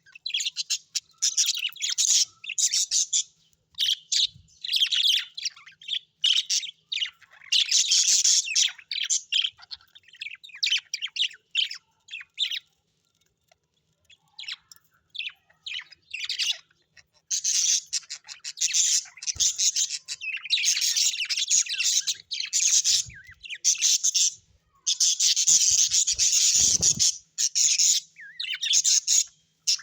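Parrots chattering and chirping in rapid, high-pitched bouts, with a short pause about halfway through.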